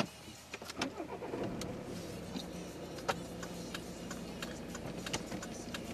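Car engine being started: it catches with a brief rise in revs in the first second or so, then settles into a steady idle.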